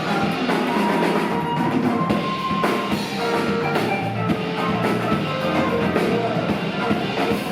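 Live rock band playing an instrumental passage: drum kit with bass drum and snare under guitar, with no singing.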